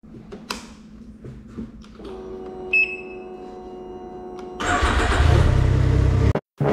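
A motorcycle being started: a few faint clicks and a low hum, then a steady whine about two seconds in with a single short beep. The engine catches about four and a half seconds in and runs loudly, then cuts off abruptly just before the end.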